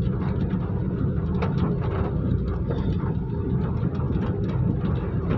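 Steady rain: a constant low rumble with many small, scattered ticks of drops landing.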